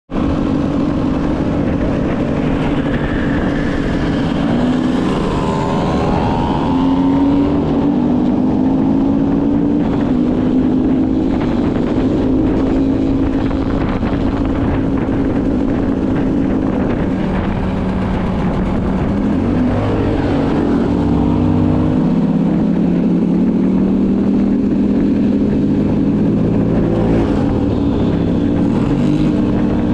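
Motocross motorcycle engines running hard, more than one at a time, their pitch rising and falling as the riders rev and shift through the gears.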